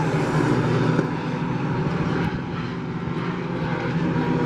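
A pack of short-track race trucks running laps around the oval, their engines a steady drone that eases slightly in the middle.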